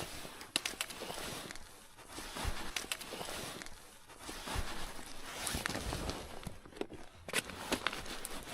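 Irregular rustling with scattered light clicks and knocks, the noise of someone moving and handling gear on snow and ice.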